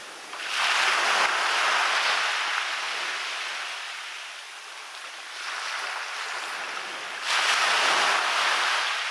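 Small sea waves breaking and washing up a beach: a surge of rushing surf about half a second in that slowly fades, a weaker one around five and a half seconds, and another strong surge about seven seconds in.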